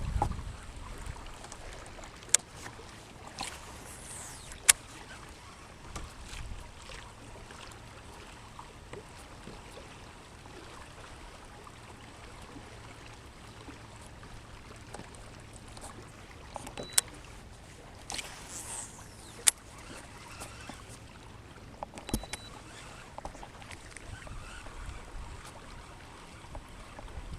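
Quiet background aboard a fishing kayak on the water: faint steady water and hull noise. A few sharp clicks are spread through it, and twice there is a brief high sweeping whoosh, each just before a click.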